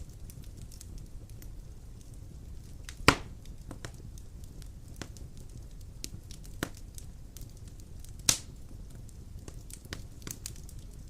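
Fire crackling in a fireplace: a steady low rumble with scattered small crackles, and sharp loud pops about three seconds in and again just after eight seconds.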